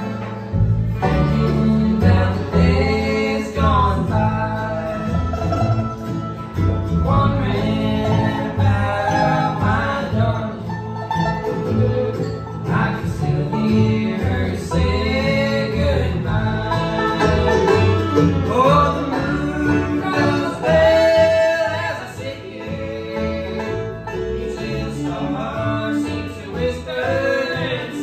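Bluegrass band playing a song live, banjo and guitar picking a steady rhythm, with a voice singing over them.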